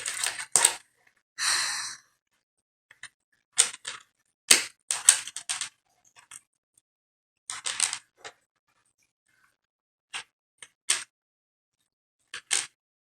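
Irregular clicks and crackles of hands handling a small aluminum-wire and plastic pony-bead figure and tying fishing line, in short bursts with silent gaps between.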